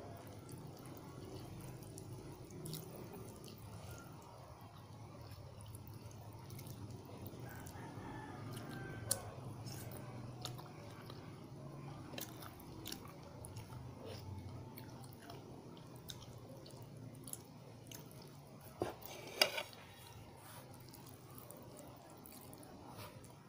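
A person chewing and eating pancit canton noodles and fried egg close to the microphone, with small wet mouth sounds and scattered sharp clicks, the loudest about three-quarters of the way through, over a steady low background hum.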